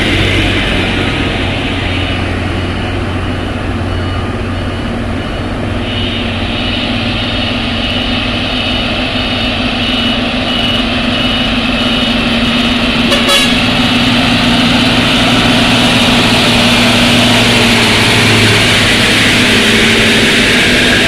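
Heavy diesel tanker trucks labouring up a steep incline in low gear, their engines running loud and steady with small rises and falls in pitch, and a single sharp click about two-thirds of the way through.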